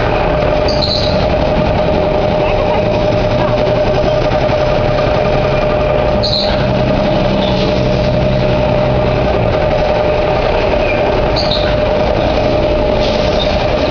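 Viking pirate-ship swing ride running: a loud, steady mechanical noise with a constant hum, and a short high-pitched sound roughly every five seconds.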